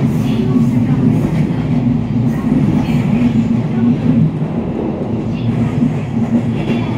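Ride noise heard inside the cabin of a JR 281 series Haruka limited express train on the move: a steady low rumble of wheels on rail, with faint light clicks now and then.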